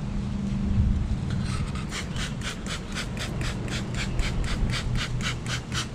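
Trigger spray bottle squirting in quick repeated pumps, about four hissing squirts a second starting a second and a half in, over the steady hum of honey bees at the open hive.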